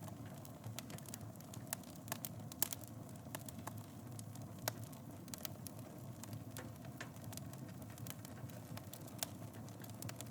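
Fireplace fire crackling: irregular sharp pops and ticks over a steady low rumble of flames, with one louder pop about two and a half seconds in.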